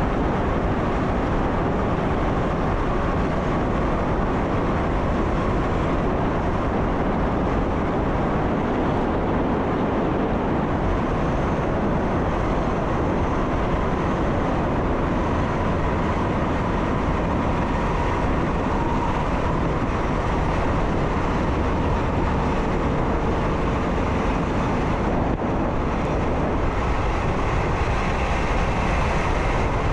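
Train running steadily along the track, heard from the driver's cab: a continuous rumble of wheels and running gear with a faint whine that drifts slightly in pitch.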